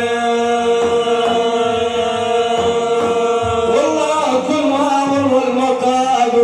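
Male voice singing a religious manqaba chant, holding one long steady note for nearly four seconds, then breaking into a wavering, ornamented run. Soft low drum beats sound underneath about once a second.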